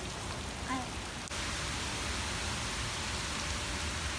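Steady heavy rain falling, a dense even hiss; about a second in it cuts abruptly to a louder, hissier stretch of rain.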